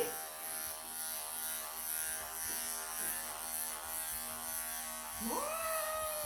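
Wahl electric pet clippers running steadily with a buzzing hum while shaving a matted Persian cat's coat. Near the end a long drawn-out vocal sound rises, holds and falls over the buzz.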